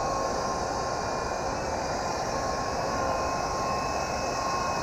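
Toy RC helicopter's small electric motors and rotors whining steadily at full forward throttle, a high constant tone over a steady rushing noise.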